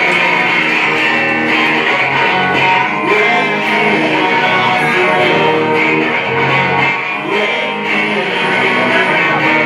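Rock band playing live: strummed electric guitars over a full band, loud and continuous, with a gliding melody line over the top.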